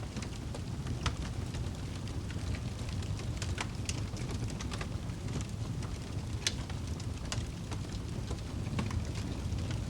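Wood fire burning in a fireplace: a steady low rushing of the flames with frequent sharp crackles and pops scattered throughout.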